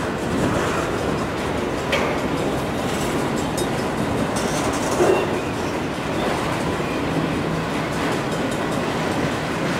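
Freight cars of a long mixed freight train rolling past on steel wheels, a steady rumble with an occasional sharp knock from the wheels, about two seconds and five seconds in. Wind noise on the microphone.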